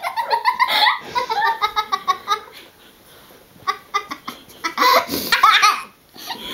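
A little girl laughing in rapid, high 'ha ha ha' bursts, breaking off briefly about halfway through and then laughing again.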